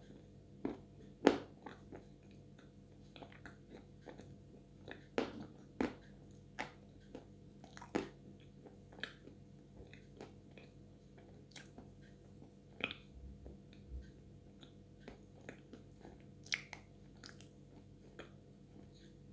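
Close chewing of wet, sticky edible Chuy clay coated in clay paste: soft mouth clicks and smacks at irregular intervals, with one sharper bite or click about a second in.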